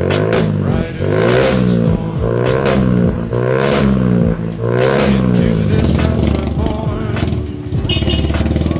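Datsun car engine breathing through an aftermarket NDK exhaust, revved in about five blips that rise and fall, then running steadily near the end.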